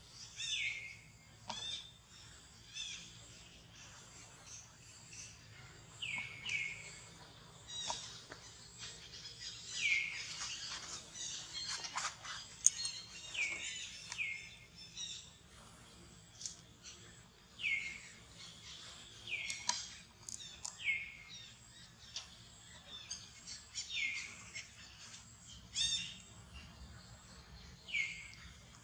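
A bird calling again and again with a short note that slides down in pitch, every couple of seconds and often twice in quick succession, with scattered small clicks between the calls.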